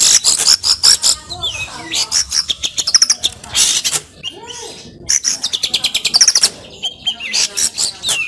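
Long-tailed shrike (cendet) singing a fast, varied chattering song, runs of sharp high chirps and trills broken by short pauses, packed with phrases mimicked from other birds.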